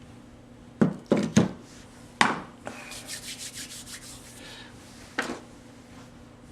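Hand tool scraping caked sawdust out of a disassembled chainsaw's housing: a few sharp knocks, then a run of quick scraping strokes at about five a second, and one more knock near the end.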